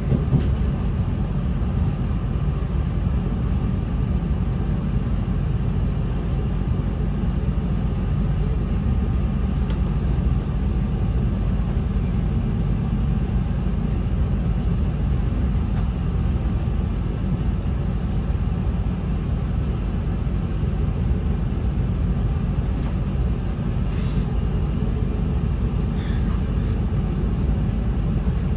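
Steady low rumble inside a NI Railways Class 3000 diesel multiple unit, the engine and running gear heard from the passenger cabin, with a few faint clicks.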